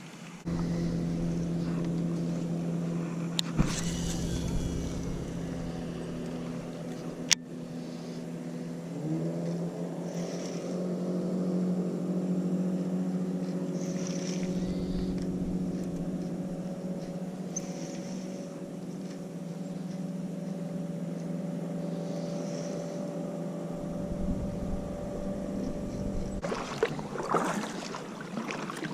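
A small boat motor running with a steady hum, rising in pitch as it speeds up about nine seconds in and cutting off a couple of seconds before the end. Two sharp clicks sound in the first seconds.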